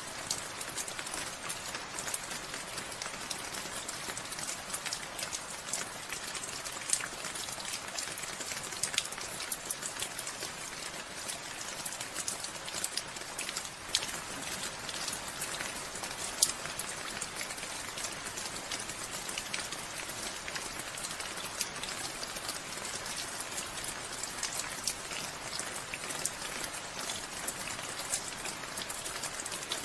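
Steady rain, with many separate drops pattering on surfaces.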